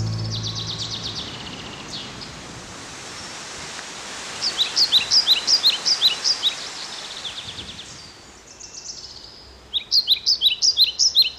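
Songbird chirping in two quick bursts of repeated high, falling notes, about four and ten seconds in, over a steady hiss of a rushing stream. Music fades out in the first second or two.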